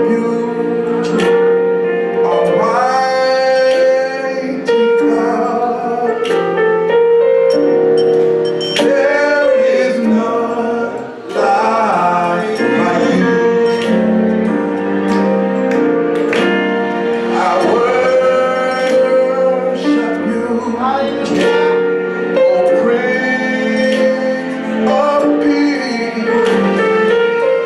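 Gospel praise and worship music: singing over sustained instrumental chords with a steady beat.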